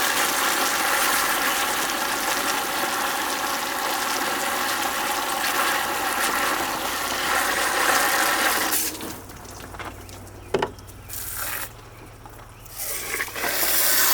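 Dishwasher running: a motor hum with water rushing and spraying inside the tub, which cuts out about nine seconds in, leaving a low hum and a single click before water starts rushing again near the end.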